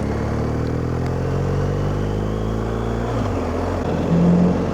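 BMW R1250GS motorcycle engine heard from inside the rider's helmet under wind noise, its revs falling slowly as the bike slows, changing about three seconds in.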